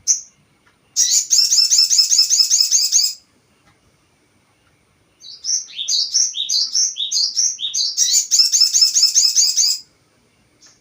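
Sogon bird song played as a lure recording: two bouts of rapid, high, repeated chirping notes, the second opening with a run of separate slurred notes before speeding into the fast chatter.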